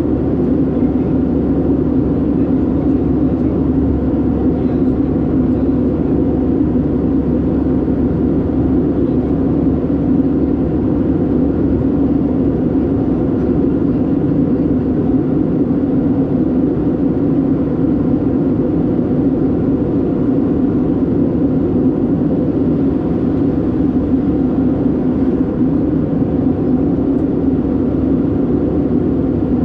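Airbus A319-112 cabin noise in flight: the steady drone of its CFM56 engines and airflow over the fuselage, heard from a window seat, unchanging throughout.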